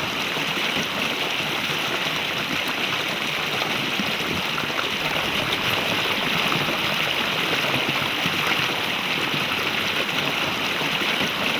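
Rushing water of a mountain stream, a steady, even rush with no change in level.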